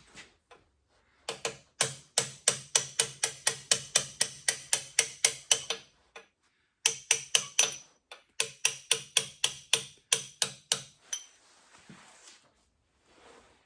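Hammer tapping a brass punch to drive a shaft key into the keyway of a Curtis air compressor's flywheel: two quick runs of rapid, even strikes, about four to five a second, with a short pause between.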